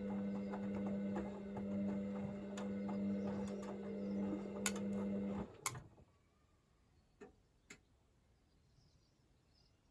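Hoover VisionDynamic washing machine's drum motor running steadily with a low hum and light ticking as the drum turns during the wash heating stage, then stopping about five and a half seconds in with a few sharp clicks; after that only a couple of faint clicks as the drum pauses between turns.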